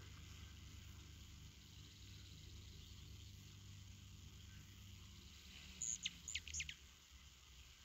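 A bird calling: four quick, high chirps, each sliding downward, about six seconds in, over faint steady background hiss.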